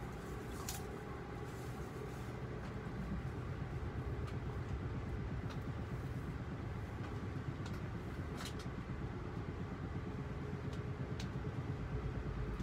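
Inside an Amfleet I passenger coach of a moving Amtrak Northeast Regional train: a steady low rumble of wheels on track with a faint steady hum, broken by a few scattered sharp clicks.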